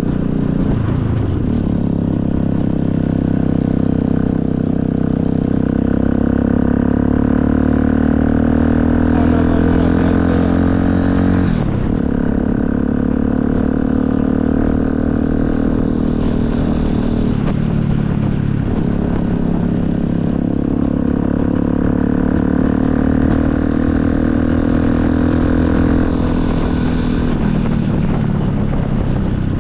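Motorcycle engine running on the move, its pitch climbing slowly and then dropping sharply a few times, as at gear changes.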